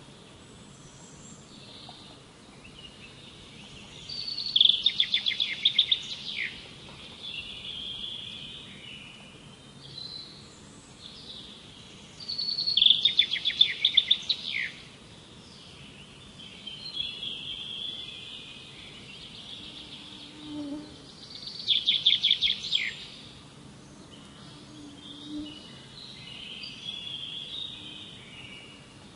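Songbirds singing: one bird repeats a loud song, a fast run of high notes lasting about two seconds, three times about eight seconds apart, with softer chirps and calls from other birds in between.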